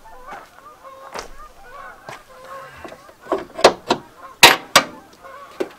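Honking bird calls, several at a time, broken by a series of sharp clicks or pops, the loudest about four and a half seconds in.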